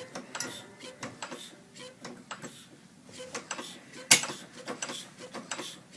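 Working replica of Henry Ford's 1893 single-cylinder four-stroke engine running slowly, puttering as a string of uneven sharp ticks a few tenths of a second apart, with one much louder crack about four seconds in.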